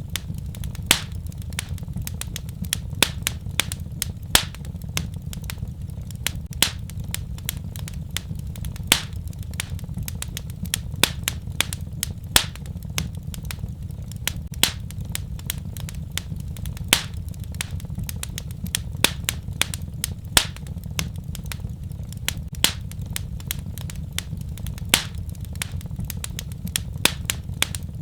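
Fire crackling in a fireplace: irregular sharp pops and snaps, several a second and some louder than others, over a steady low rumble.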